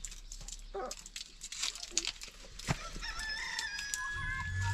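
A rooster crowing once in the second half, a long held call, after scattered clicks and knocks. A low hum comes in near the end.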